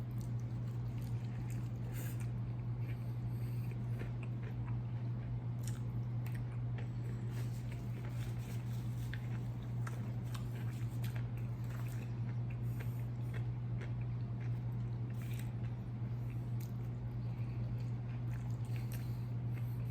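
Close-miked eating: biting and chewing fried food, with irregular crunches and wet mouth clicks. A steady low hum runs under it.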